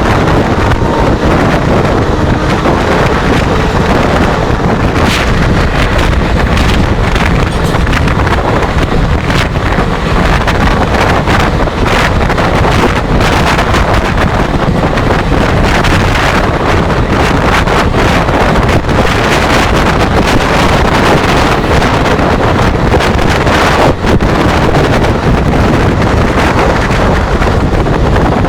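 Loud, steady rush of wind buffeting the microphone over the running noise of a fast-moving train, with occasional faint ticks.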